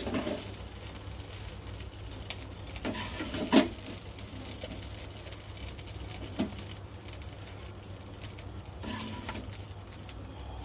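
Chicken stir-frying in a pan, a faint steady sizzle with a few knocks of a spatula against the pan. The loudest knock is about three and a half seconds in.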